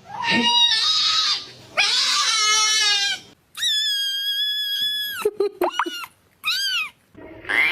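A cat meowing in a string of calls: two meows, then one long, level, held yowl, a few short chirps, and one more short meow near the end.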